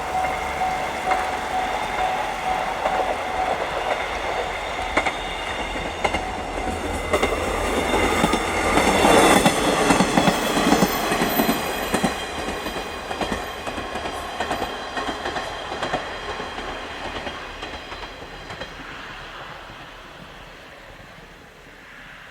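Diesel railcar passing on the line, its wheels clattering over the rail joints, loudest about nine to eleven seconds in, then fading away as it leaves.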